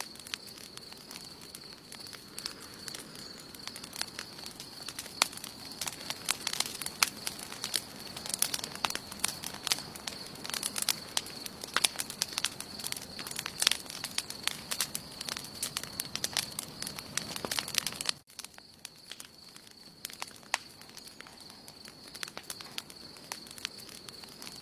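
Wood campfire crackling, with many sharp snaps and pops over a soft hiss of burning, and a steady high-pitched tone underneath. About 18 seconds in, the crackling suddenly drops to quieter, sparser pops.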